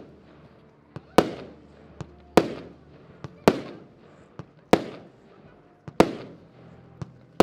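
Diamond Revolution fireworks battery firing a slow, steady sequence of shots, about one every 1.2 seconds. Each shot is a soft launch thump followed a moment later by a loud burst that fades out over about a second.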